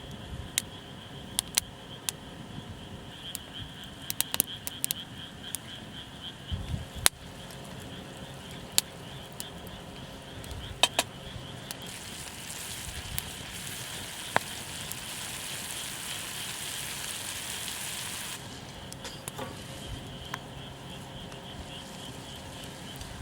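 Wood campfire crackling, with scattered sharp pops. A steady hiss swells in for several seconds from about twelve seconds in, then drops away.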